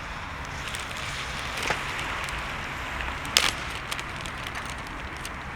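Wood bonfire crackling, with many small snaps and two louder pops, about a second and three seconds in, over a steady low rumble.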